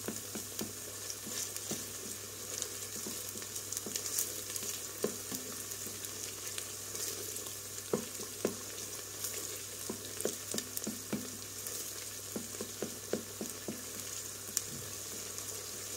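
Chopped onion with tomato and pepper paste sizzling in oil in a stainless steel pot, the paste being fried to bring out its aroma. A wooden spoon stirs through it, with frequent light scrapes and knocks against the pot.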